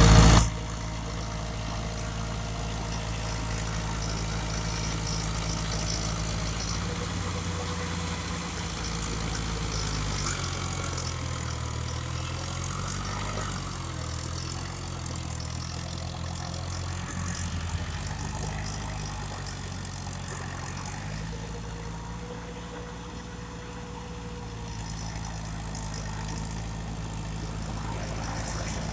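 Massey Ferguson 290 tractor's diesel engine running steadily under work, its pitch dipping and then recovering in the middle of the stretch. A brief loud burst of noise at the very start.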